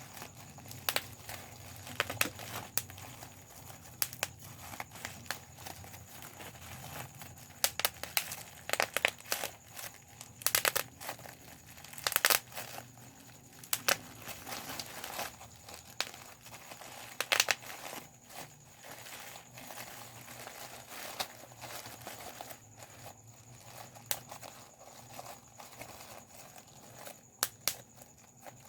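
Bubble wrap being popped by hand: sharp pops, singly and in quick clusters at irregular intervals, between crinkling of the plastic sheet.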